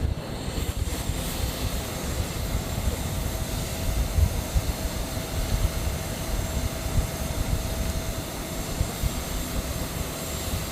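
Jet aircraft engines running at an airport: a steady hiss and hum over an uneven low rumble.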